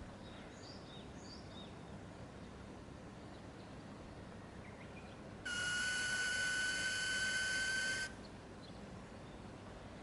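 A steady high-pitched whine, the 'kyuuu' noise from around the fuel tank cap of a Kawasaki Ninja ZX-6R, comes on suddenly past the middle, holds one pitch for about two and a half seconds, then cuts off. The engine is not running.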